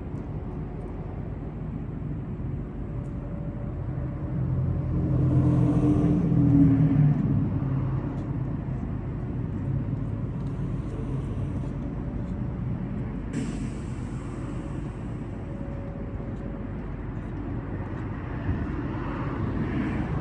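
Road traffic: a steady low rumble of vehicles, with one passing louder about five to seven seconds in, and a sudden short hiss a little past the middle.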